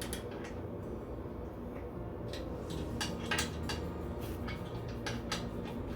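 Scattered metal clinks and taps of bolts and a wrench as a cast iron bandsaw table is bolted to the trunnion, irregularly spaced, over a low steady hum.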